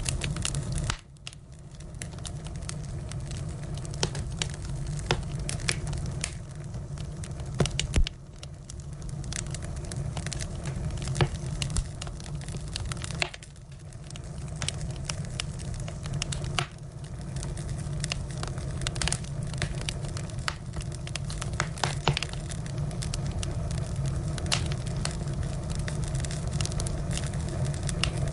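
Firewood burning, crackling with irregular sharp pops over a steady low rumble of the flames; a couple of louder pops about eight and eleven seconds in.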